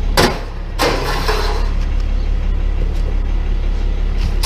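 Truck engine idling steadily with a low hum. Two sharp knocks come about half a second apart in the first second, and a lighter one comes near the end.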